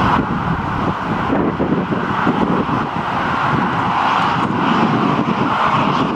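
Jet airliner engines running, a steady rushing noise with no clear pitch.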